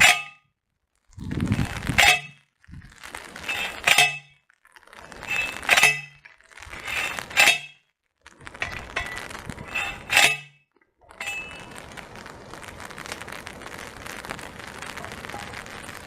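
Hand post driver lifted and slammed down onto a stake five times, about two seconds apart: each blow a sharp metallic clang, preceded by the scrape of the driver sliding up the stake. After the last blow only a steady hiss of rain remains.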